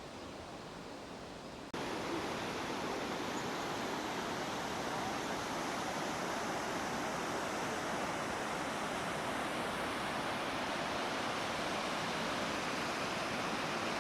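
Rushing water running steadily. About 1.7 s in it cuts suddenly to a louder, brighter rush, which then holds steady.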